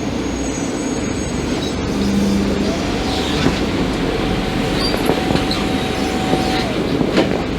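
Scania K310IB articulated BRT bus running, a steady rumble of engine and road noise with rattles and brief squeaks, and a thin steady whine from about three to six and a half seconds in.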